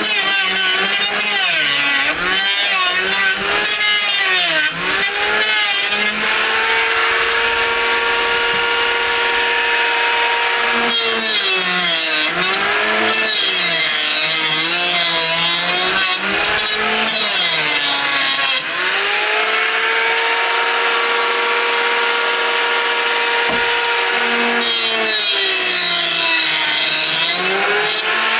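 Power saw cutting wood: its motor pitch sags and wavers while it bites into the timber, then recovers to a steady high pitch while running free between cuts, which happens twice, for a few seconds each time.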